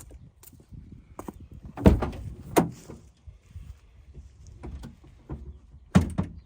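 Car door and its lock being worked: a series of clicks and sharp clunks, the loudest twice about two seconds in and once more near the end.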